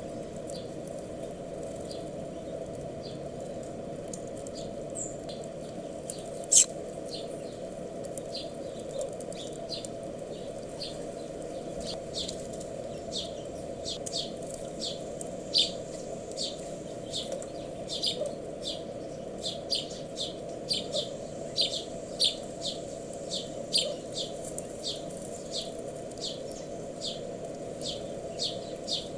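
Small wild birds chirping, short high chirps that come more often, about one or two a second, in the second half, over a steady background hum. A single sharp click about six seconds in is the loudest sound.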